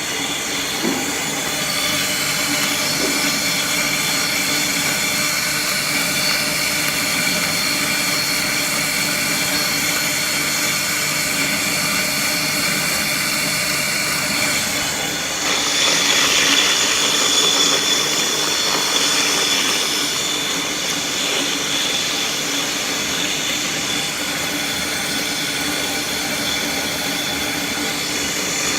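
Electric peanut butter grinder running steadily, its motor giving a constant whine over a hum. About halfway through it turns louder and hissier for a few seconds, then settles back.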